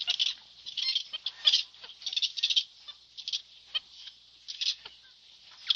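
High-pitched chirping and squeaking calls of a small animal, coming in quick irregular clusters.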